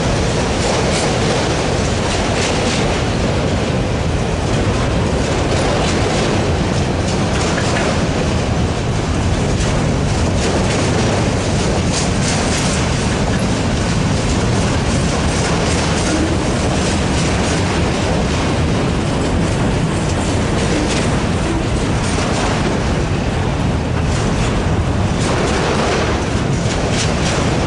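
Freight train of enclosed autorack cars rolling steadily past, its steel wheels running on the rails with scattered clicks and clanks as the cars pass.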